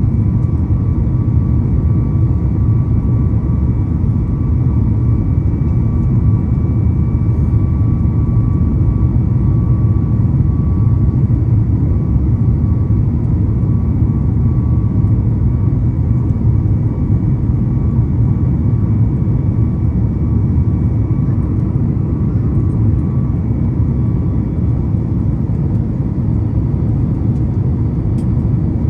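Cabin noise inside a Boeing 737 MAX 8 climbing out after takeoff, heard from a window seat: a steady low roar from the CFM LEAP-1B engines and the airflow, with a faint high engine tone that fades away over the first half.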